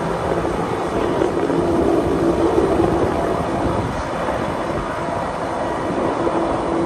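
Wengernalpbahn rack-railway train running along the track, heard from on board: a steady rumble with a humming tone that swells and fades.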